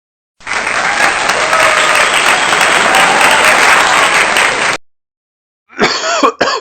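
Applause: many hands clapping together in a dense, steady patter for about four seconds, with a few faint voices in it, then it stops abruptly.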